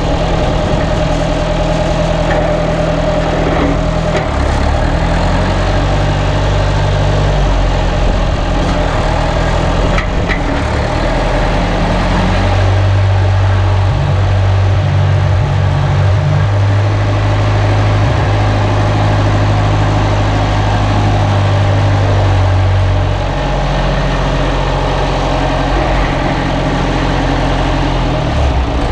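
Straight-piped John Deere 2030 tractor engine running, its low, steady note shifting up and down in steps a few times as the engine speed changes. It is loudest through the middle stretch.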